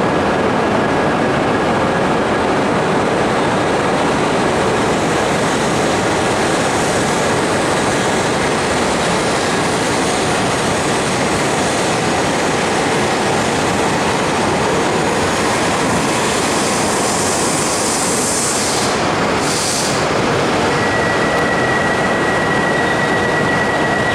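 E5 series Shinkansen train pulling out and running past, a steady loud rush of train noise. A steady high tone comes in near the end.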